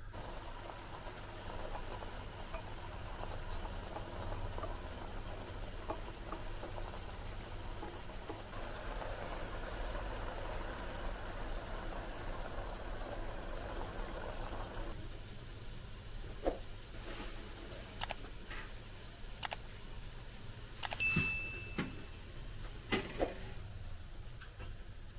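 Steady frying hiss from a pot of chicken kebab mixture on a gas stove, growing stronger and then stopping about halfway through. After it come scattered clicks and knocks of utensils, one of them with a brief metallic ring.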